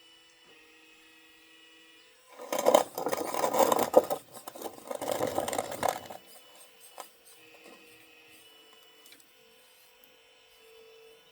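Homemade 1/12-scale metal RC excavator at work: a faint steady whine, broken by two loud stretches of harsh metallic rattling and scraping lasting about two seconds and a second and a half.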